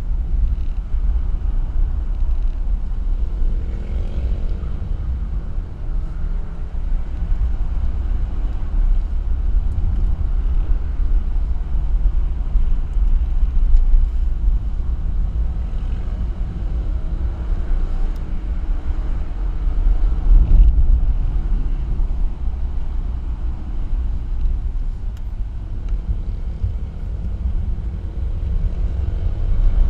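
Car driving on a winding road, heard as a heavy low rumble of wind and road noise, with faint engine notes rising and falling several times as the revs change.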